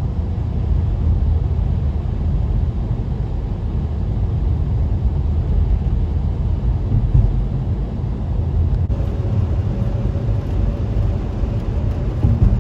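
Steady road noise and engine rumble heard from inside a moving car. A faint steady hum joins about nine seconds in.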